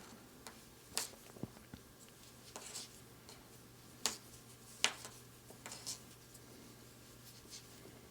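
Faint scattered clicks and soft rustles of a crochet hook and yarn being worked into double crochet stitches, with a sharper click about four seconds in and another about five seconds in.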